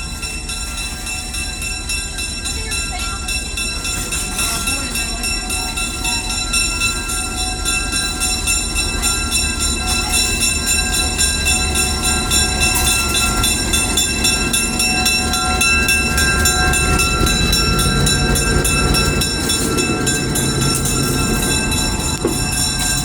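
Train running along the track, heard from on board: a steady rumble under a high whine, with rapid clicking, slowly getting louder. A low tone joins for a few seconds near the end.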